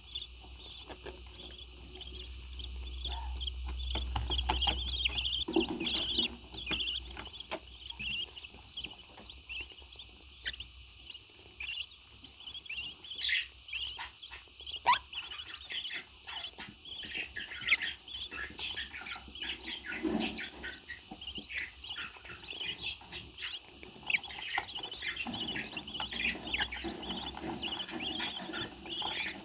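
Pet birds chirping and chattering in a continuous stream of short, high calls, with a low rumble under them for the first five seconds or so.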